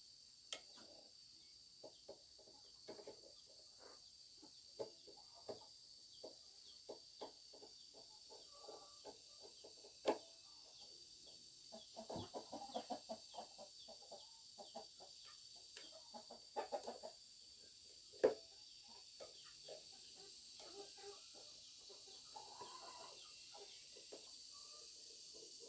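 Chickens clucking softly, in many short, scattered clucks with a few louder bunches, over a faint steady high-pitched whine.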